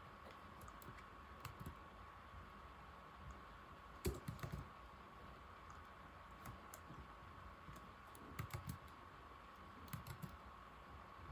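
Old laptop keyboard being typed on: scattered key clicks in short, sparse bursts, the loudest burst about four seconds in and two more near the end. A faint steady high tone runs underneath.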